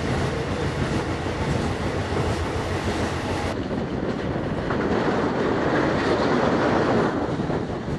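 Running noise of a moving passenger train heard from on board: a steady rumble and rattle of the carriage and its wheels on the track. About three and a half seconds in the sound abruptly turns duller, losing its hiss.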